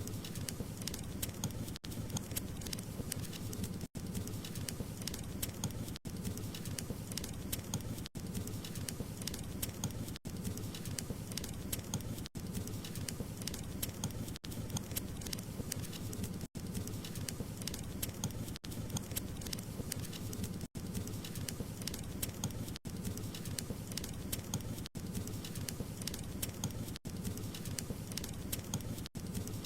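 Wood fire crackling: a steady low noise of flames dense with sharp pops and crackles, cut by a brief dropout about every two seconds.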